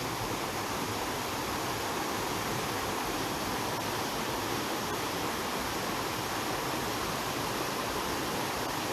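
Steady, even rushing noise of water, with no change in level.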